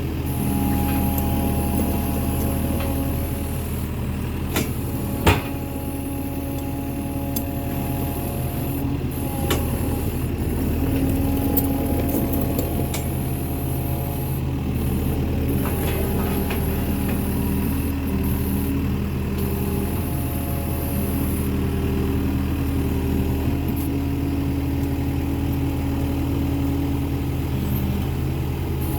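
An engine idling steadily, with a few light clicks and one sharp knock about five seconds in.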